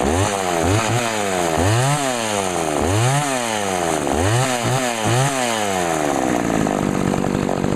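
Two-stroke engine of a McCulloch Eager Beaver 2014 chainsaw revving up and down about once a second as it cuts, then running at a steadier high speed near the end.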